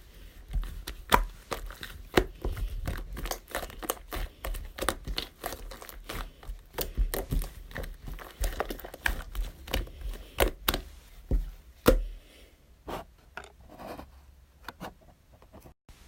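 Close handling sounds of crinkly wrapping being crumpled and torn, with many sharp clicks and crackles. These are dense for about twelve seconds, then thin out to a few scattered clicks.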